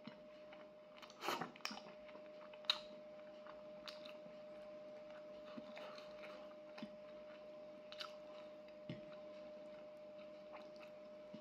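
A man chewing food close to the microphone: faint wet chewing and mouth smacks with a few sharper clicks, the loudest about a second and a half and about three seconds in, over a faint steady hum.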